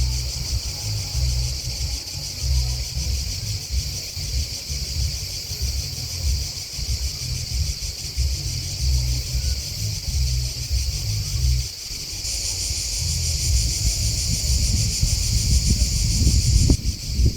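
A steady high-pitched chorus of chirping grasshoppers and crickets, growing louder and brighter from about twelve seconds in to near the end. Under it runs a gusty low rumble of wind on the microphone, briefly dropping out around twelve seconds.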